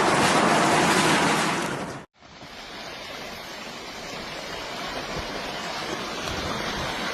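Loud, steady rushing noise of churning water that cuts off abruptly about two seconds in. After a brief silence a quieter rushing rumble starts and slowly builds.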